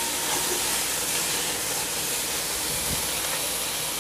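Black chickpeas sizzling in a little hot oil in an iron kadai: a steady hiss.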